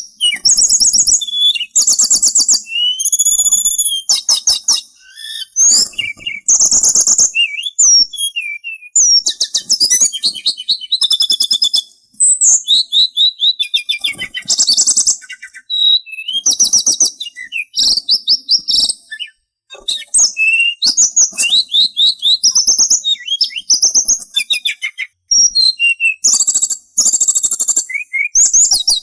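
Sulingan songbird singing a long, varied song of high whistles, gliding notes and fast rattling trills in quick phrases with short pauses.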